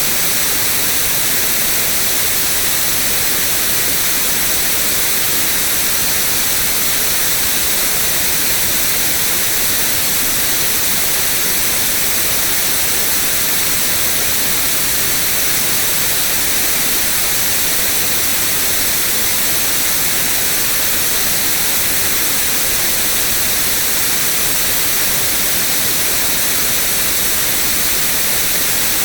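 Steady white noise: an even, unchanging hiss with no breaks, brightest in the high frequencies.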